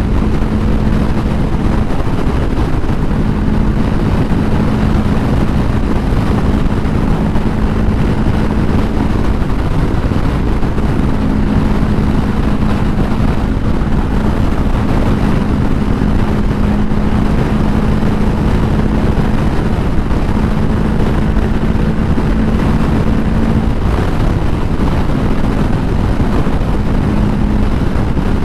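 Honda CBR500R's parallel-twin engine holding a steady drone at highway cruising speed, under a loud, constant rush of wind on the microphone.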